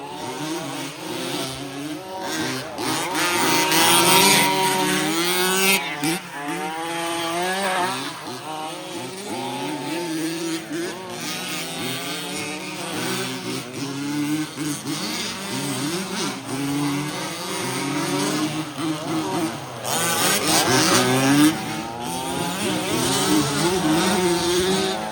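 Several remote-control 4WD racing trucks running together, their motors whining up and down in pitch as they accelerate and brake around the track. Louder close passes come about four seconds in and again near twenty seconds.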